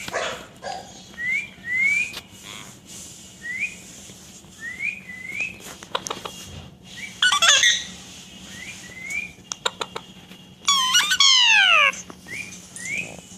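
Pet parrot repeating short rising chirps. It gives a louder call about seven seconds in and a long, loud falling call near the end.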